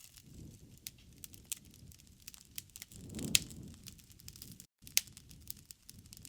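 Wood fire crackling in a fireplace: a steady low rumble of flames with scattered sharp pops and snaps, a louder flare and pop about halfway through and another sharp pop near the end.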